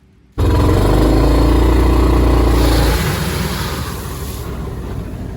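An engine running loudly with a steady pitch, starting abruptly about half a second in, then easing to a lower level about three seconds in.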